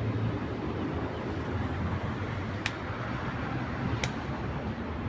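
Steady low rumble of city traffic, with two short sharp clicks or knocks, the first a little past halfway and the second more than a second later.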